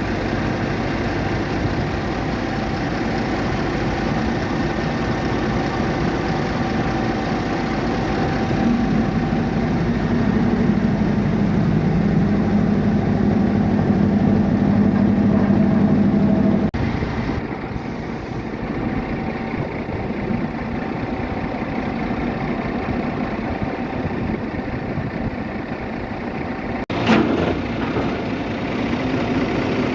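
Scania G450 truck's diesel engine running at idle. From about 9 s it grows louder with a steady hum, then drops abruptly at about 17 s. A brief sharp knock comes near 27 s.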